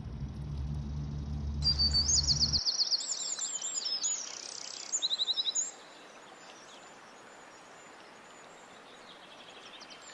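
Songbird singing rapid, high trilled phrases of quickly repeated notes, loudest in the first half and fainter later. A low steady rumble runs underneath at first and stops about two and a half seconds in.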